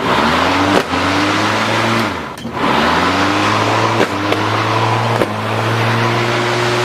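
Lawnmower running under load while its blade chews up a plastic toy: several sharp knocks as the blade strikes it, the engine note dipping at each hit and climbing back up to speed.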